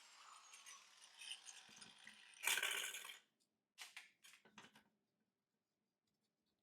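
Angle grinder's whine spinning down and fading at the start, then metal clinks and rattles: one louder clatter about two and a half seconds in, followed by a few light knocks.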